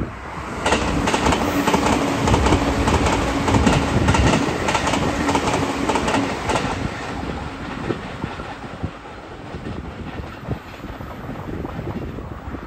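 E657 series limited express electric train passing at speed, with a rapid clatter of wheels on the track over a steady hum. The sound is loudest for the first six seconds or so, then dies down to a fainter rumble as the train moves away.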